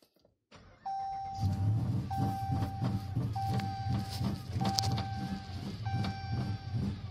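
A Dodge's camshaft-modified V8 starts about a second in and settles into a pulsing idle. Over it a dashboard warning chime sounds five times in a row, each a steady tone of about a second.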